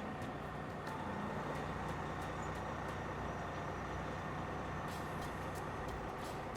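Heavy diesel truck engine running steadily, a low, even drone.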